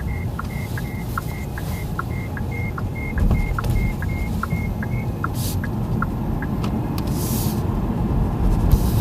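Cabin noise of the Qiantu K50 electric car: a steady low road rumble. Over it a dashboard chime ticks quickly, about two or three times a second, and stops about five seconds in.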